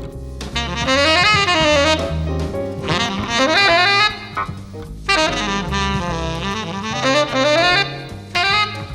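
Live jazz: a saxophone playing melodic phrases over a walking bass line, with a short breath between phrases about four seconds in.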